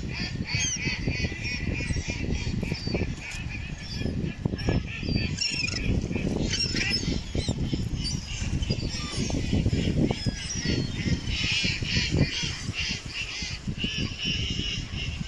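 A flock of waterfowl calling, many short calls overlapping throughout, over a steady low rumble.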